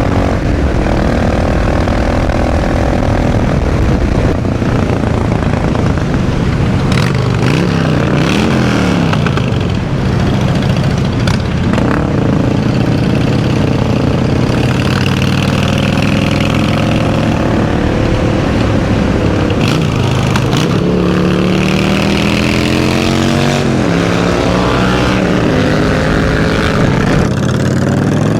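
Motorcycle engine under way on the road, its pitch repeatedly climbing and dropping with the revs and gear changes.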